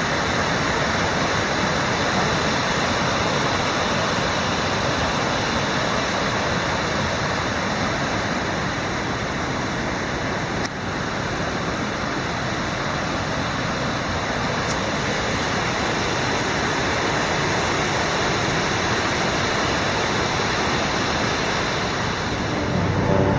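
Niagara Falls: a steady, unbroken rush of falling water.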